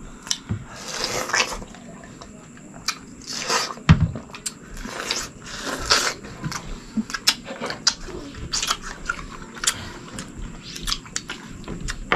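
Close-up eating sounds: a person biting and chewing food with wet lip-smacking and many irregular sharp mouth clicks.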